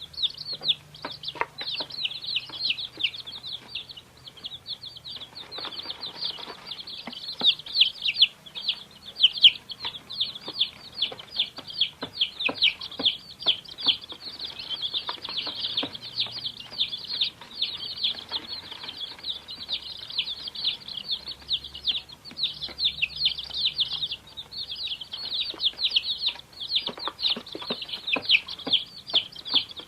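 A brood of baby chicks peeping continuously, many high, short, falling cheeps overlapping one another.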